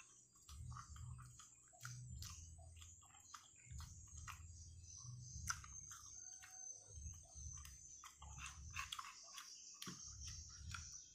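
Faint chewing of squid cooked in its black ink, with many small wet mouth clicks. A faint steady high whine runs under it.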